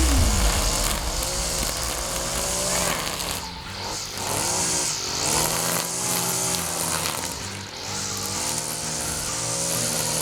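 Gas string trimmer engine running and revving up and down over and over, with a low rumble as it opens up at the start.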